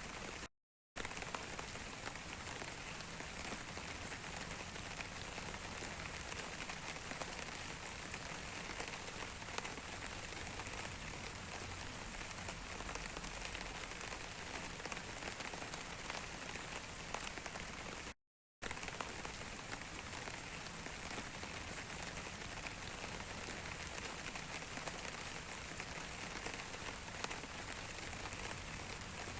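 Steady rain, a dense patter of raindrops. It cuts out completely for a split second twice, once about a second in and again about eighteen seconds in.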